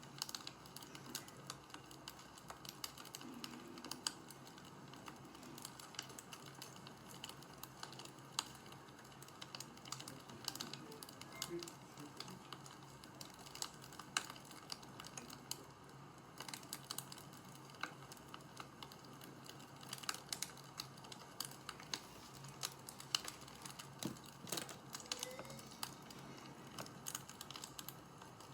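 Wood fire crackling: irregular sharp snaps and pops over a soft steady hiss.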